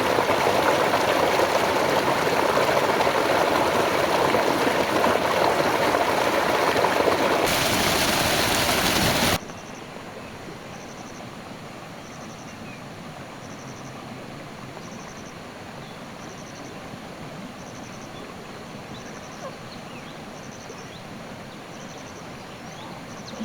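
Rushing stream water, loud and steady, that cuts off abruptly about nine seconds in. A quieter steady hiss follows, with a faint high chirp repeating roughly once a second.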